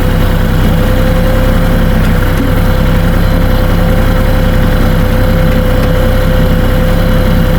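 Kioti 3520HST compact tractor's diesel engine running steadily, with a constant whine held at one pitch over its drone.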